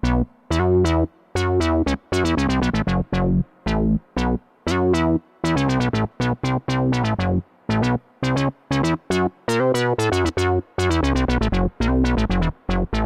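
IK Multimedia Uno Synth Pro X analog synthesizer playing a fast sequenced pattern of short, plucky notes over low bass notes. Each note starts bright and quickly turns dull.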